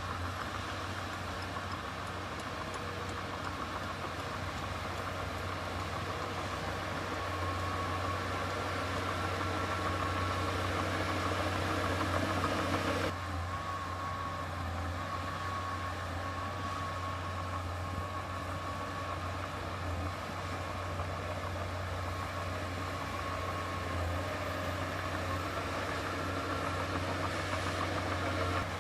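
Heavy diesel earthmoving machine engine running steadily, with a low drone and a faint whine. The sound shifts abruptly about thirteen seconds in.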